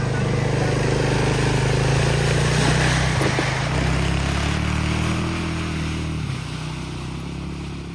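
An engine running steadily, its pitch shifting about three seconds in, then fading away toward the end.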